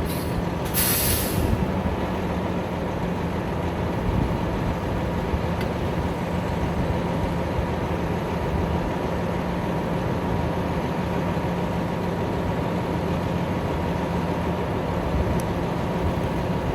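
Mixer truck's Cummins ISM diesel engine running steadily, with two short hisses of air release in the first second and a half.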